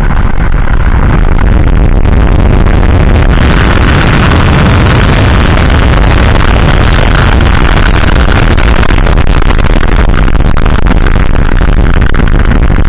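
Atlas V rocket at launch: the engines' continuous, very loud rumble and crackle, so loud that the recording is near its limit throughout.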